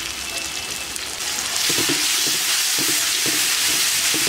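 Onions, tomatoes, spices and freshly added chili paste sizzling in hot oil in a large aluminium kadai. About a second in the sizzle grows louder as a spatula stirs the paste in, scraping against the pan a few times.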